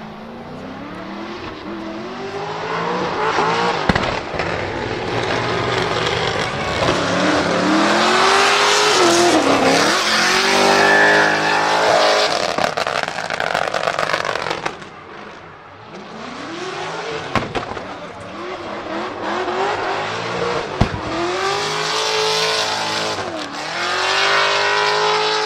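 Nissan 200SX pickup's swapped-in LS7 V8 engine revving hard over and over, its pitch climbing and dropping every few seconds, with a couple of sharp cracks from the exhaust.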